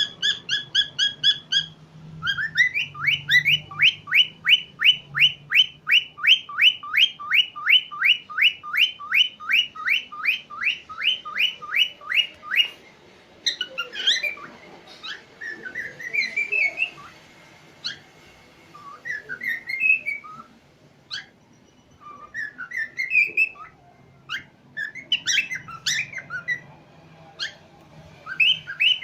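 Cockatiel whistling: a fast run of short rising whistle notes, about three a second for some ten seconds, then a looser string of rising whistles and chirps with short pauses between them.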